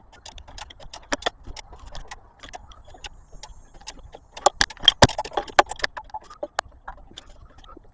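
Socket ratchet clicking in quick, irregular runs, with small metal clinks, as the oil filter is tightened down. The clicking is busiest and loudest about halfway through.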